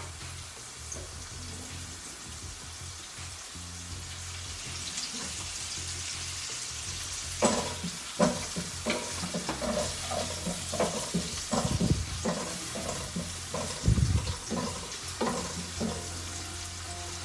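Sliced onions with dried red and green chillies sizzling in oil in a nonstick pan. From about halfway, a wooden spatula stirs them, knocking and scraping against the pan a dozen or so times.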